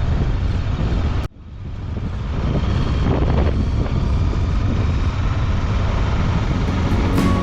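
Strong wind blasting over the microphone of a moving motorcycle, a heavy, even rush that cuts out abruptly about a second in and swells back up. Music comes in near the end.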